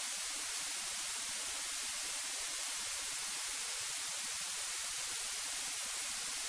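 Steady hiss of static on an aircraft radio/intercom audio feed with no transmission on it.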